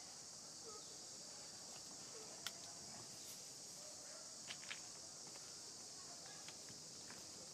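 Faint, steady high-pitched insect chorus, like cicadas or crickets, with a few sharp clicks and soft short squeaks here and there.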